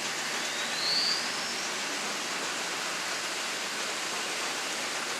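Steady rushing hiss of peanut mill equipment, with a short rising whistle about a second in.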